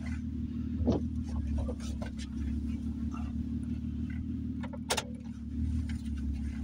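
Car engine idling, heard from inside the cabin as a steady low hum, with scattered light ticks and taps and one sharp click about five seconds in.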